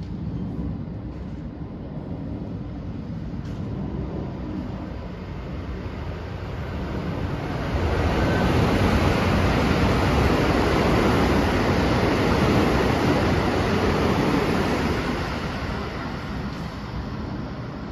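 Electric multiple-unit train running through a station at high speed without stopping: a rushing rumble of wheels on rail that builds, stays loudest for about seven seconds in the middle, then fades away.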